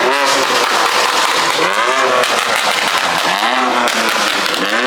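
A performance car's engine revving hard several times as it pulls out, the engine note rising and falling about four times.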